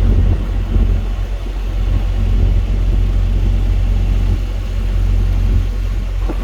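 Steady, loud low rumble with a fluctuating level and no distinct events.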